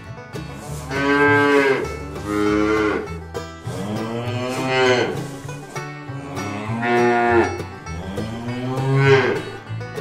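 Cattle mooing: about five long moos, each arching up and then down in pitch, some coming in close pairs.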